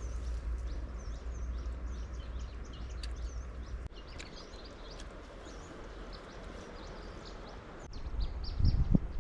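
Many small birds chirping in quick, short calls over a low rumble, with a few knocks about eight to nine seconds in that are the loudest sounds.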